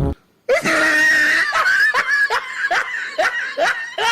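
A person laughing hard: a loud outburst about half a second in, then a long run of rhythmic laughing pulses, about two or three a second.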